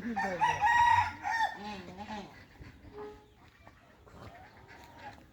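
A bird calling: one long, loud held call in the first second and a half, followed by fainter, shorter calls.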